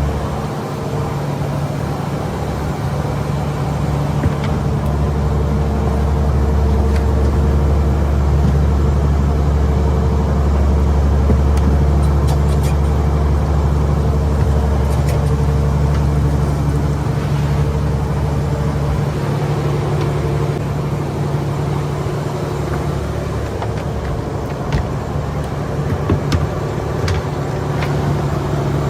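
A fishing boat's engine running steadily, a low, even drone, with a few light knocks and clicks over it.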